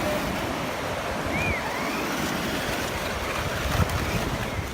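Surf washing on a beach, with wind buffeting the microphone in a steady low rumble.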